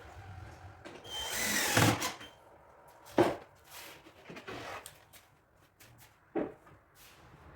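A power drill runs for about a second, growing louder, then a couple of sharp knocks and small clicks as the MDF cabinet panels are worked on.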